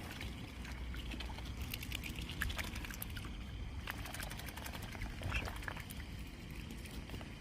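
Young swans pecking and dabbling at food with their bills: a scattered run of quick, sharp clicks and wet nibbling sounds.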